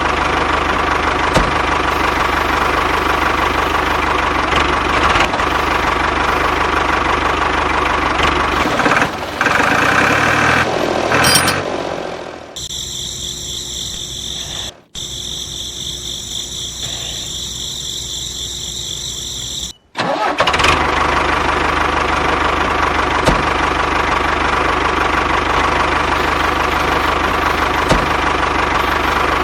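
Steady engine running sound, like a tractor idling. About twelve seconds in it gives way to a quieter, higher whine, broken by two sudden cut-outs, and then the engine sound resumes.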